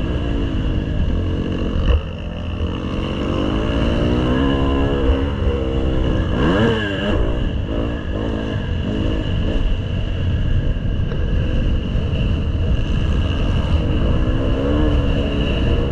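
Motocross bike engine revving up and down repeatedly, its pitch rising and falling with each blip of the throttle, with a quick sharp rev about seven seconds in, over a constant low rumble.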